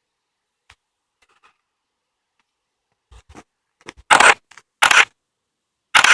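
Footsteps scuffing and crunching on a woodland path: a few faint steps, then three loud ones about a second apart near the end.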